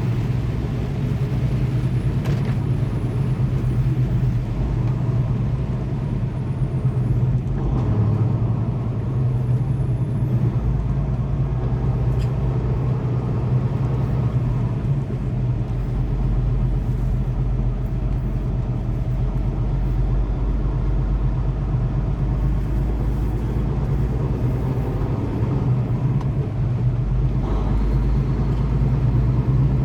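Steady drone of a semi-truck's engine with road and tyre noise, heard inside the cab while driving in the rain.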